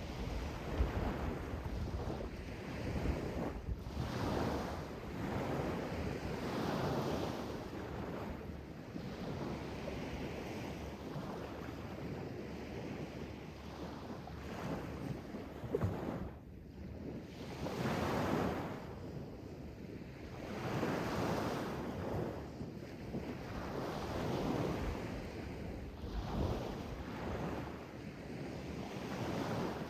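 Sea waves washing in, in repeated swells every few seconds, with wind buffeting the microphone.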